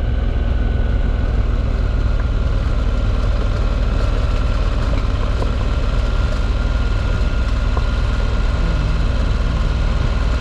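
Moto Guzzi V85TT's air-cooled transverse V-twin engine braking on a long downhill, throttle closed, running at a steady low rumble.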